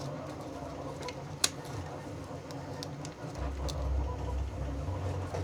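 Cut sticker vinyl slowly peeled off its backing during weeding: faint scattered ticks with one sharp click about a second and a half in, over a low hum that grows louder about three seconds in.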